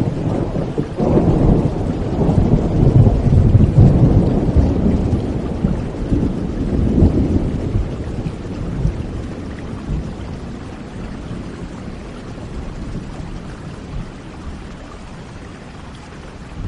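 Thunder rolling over steady rain: a deep rumble swells about a second in, peaks, rises again briefly, then fades, leaving the rain to hiss on.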